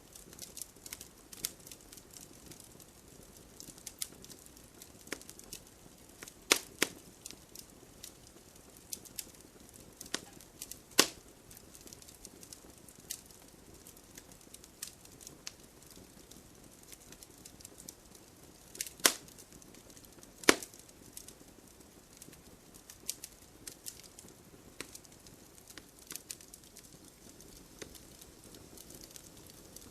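Wood campfire crackling: irregular small pops and snaps of burning wood over a soft steady hiss, with a handful of much louder sharp cracks.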